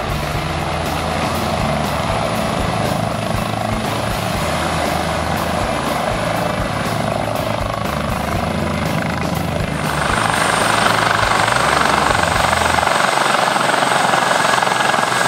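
Helicopter running, with a steady rotor beat. About ten seconds in, a louder, higher rushing noise with a thin high whine joins it.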